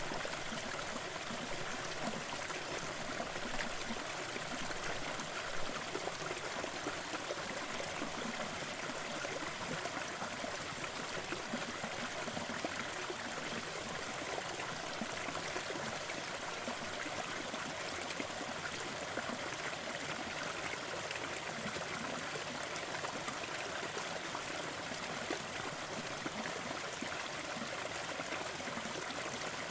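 Waterfall: water pouring and splashing in an even, steady rush.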